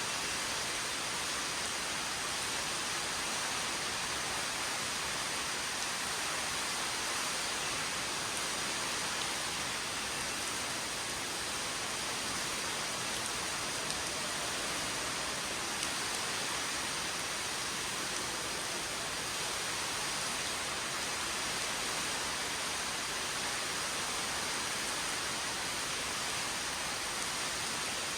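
Underground waterfall: falling water and spray making a steady, even rushing hiss.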